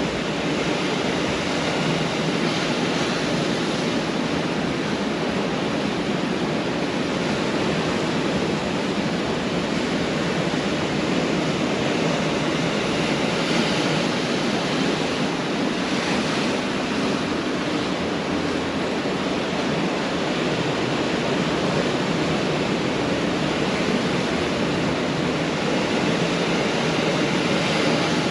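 Pacific Ocean surf washing onto a beach in a steady, continuous rush, swelling gently now and then as waves break.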